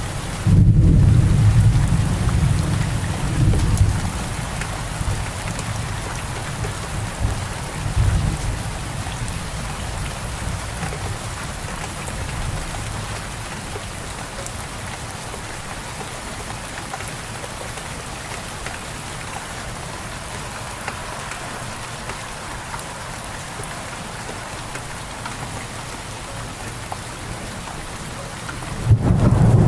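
Steady rain falling, with low thunder rumbling through the first few seconds that dies away by about eight seconds in, and starts again near the end.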